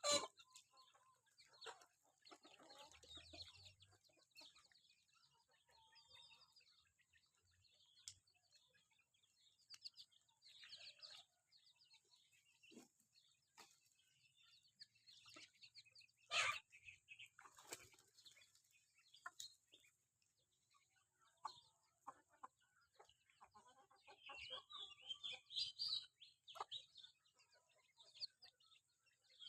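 Free-range village chickens clucking softly here and there, with a few sharp clicks and a run of high chirping near the end, over a steady faint high hiss.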